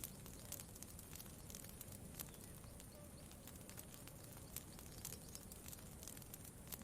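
Campfire crackling softly: scattered small sharp pops and ticks over a faint, steady low background rush.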